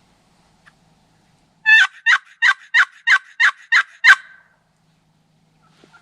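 Turkey box call worked by hand in a run of eight raspy hen yelps, about three a second; the last yelp is the loudest and ends with a knock of the paddle.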